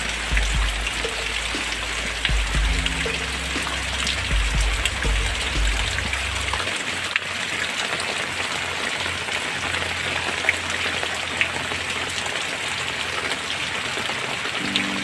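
Steady rain falling, an even hiss with scattered individual drop strikes. Soft low music notes sit under it for roughly the first six seconds and come back near the end.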